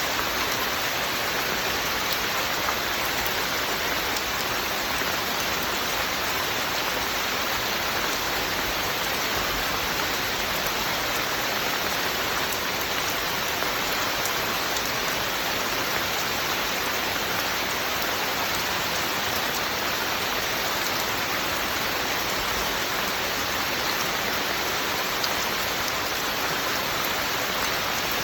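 Steady rain falling, an even hiss of heavy rainfall with fine drops pattering on a surface.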